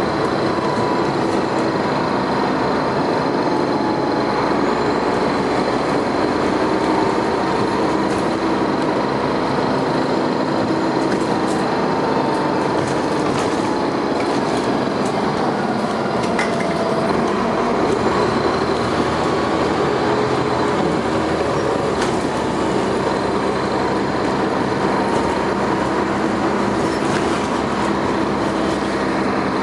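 Dennis Arrow double-decker bus under way, heard from on board: the engine and drivetrain run steadily under road rumble, with a few sharp rattles from the body.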